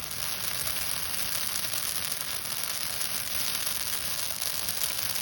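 Christmas tree branches burning in a campfire: a steady crackling hiss of fir needles catching, which builds up in the first half second.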